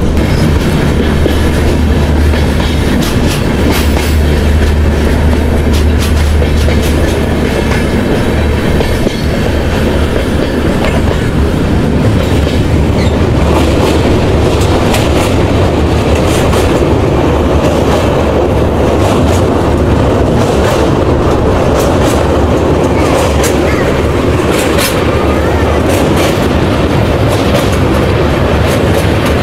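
Passenger train running, heard from on board, with a steady rumble and the wheels clattering over the rail joints.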